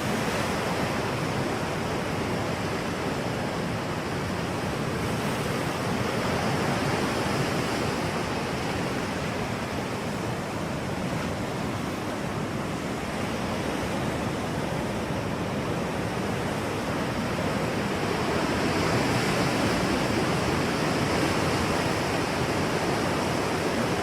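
A steady rushing noise, even across low and high pitches, that swells a little in level now and then.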